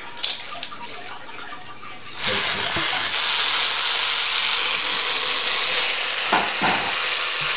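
A few light clicks, then about two seconds in a loud, steady hiss of running or spraying water starts abruptly and holds.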